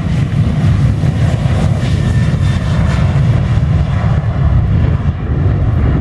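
Airliner engines running loudly as a steady, deep rumble, with a faint higher whine in the middle.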